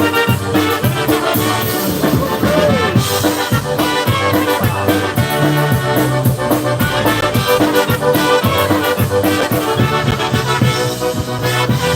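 Live polka band playing an instrumental break between sung verses, with a steady dance beat.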